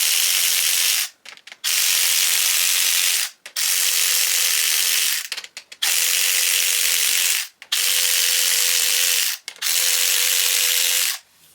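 Powered ratchet with an 8 mm socket running on bolts of an LS1 V8 engine. It runs in about six steady spurts of a second and a half each, with short pauses between.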